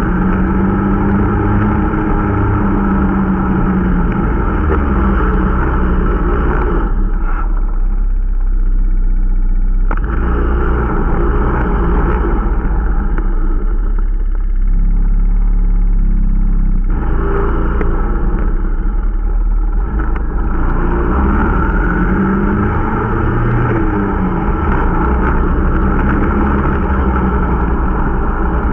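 Irbis Dingo T125 snowmobile's 125 cc engine running under way during running-in, its revs rising and falling. The note turns duller from about 7 to 17 seconds in, then picks up again.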